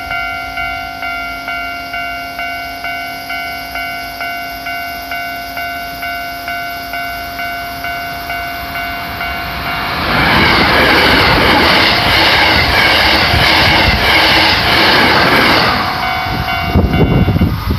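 Level crossing warning bell ringing steadily, about two strokes a second. About ten seconds in, a Hankyu train passes at speed with a loud rush of wheel and rail noise that drowns the bell for about six seconds. The bell is heard again briefly as the train clears, and the sound cuts off suddenly at the end.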